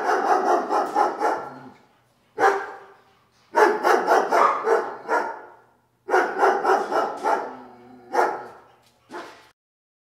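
Jack Russell terrier puppies barking during rough play-fighting, in several quick runs of barks with short pauses between them and a brief last run near the end.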